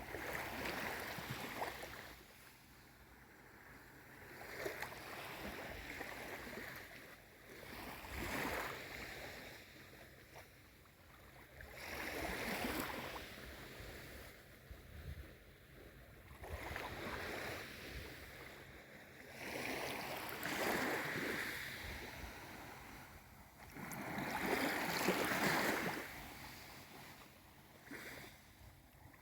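Calm sea: small waves lapping, each one swelling and falling away, about every four seconds.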